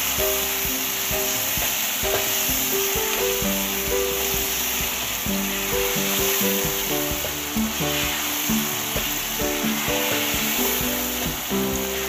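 Beef karahi masala (beef, tomatoes and spices) sizzling in hot oil in a karahi while being stirred with a spatula. It is at the bhuna stage, fried down with a splash of water so the spices don't burn. A simple stepping background melody plays under the sizzle.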